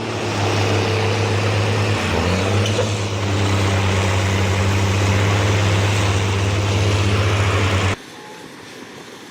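Heavy logging truck's diesel engine running hard under load, a steady low drone with a brief change in pitch about two seconds in. It cuts off suddenly near the end, leaving a quieter background noise.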